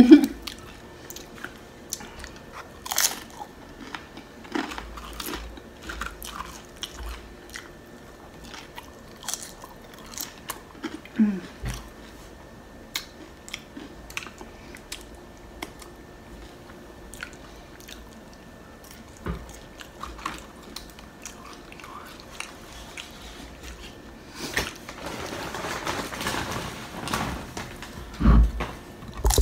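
A person chewing and crunching loaded nacho tortilla chips close to the microphone: sharp crisp crunches scattered throughout, a stretch of louder crackling a few seconds before the end, then a heavy bite near the end.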